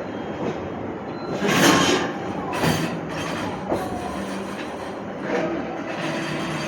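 JR Chuo Main Line electric train running along the platform, its wheels knocking over rail joints a few times over a steady rumble and low hum.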